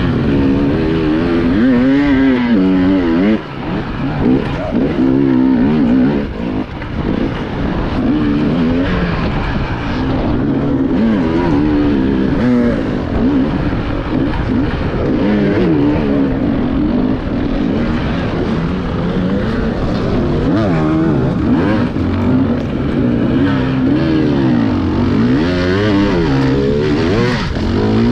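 Enduro motorcycle engine revving up and down continuously, its pitch rising and falling with every throttle change as the bike is ridden hard over rough terrain, heard close up from the rider's own bike.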